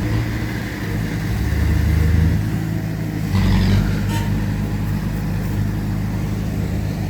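Heavy diesel engine of earthmoving machinery running under load with a low drone. It swells louder about a second in and again briefly around the middle, with a short knock just after.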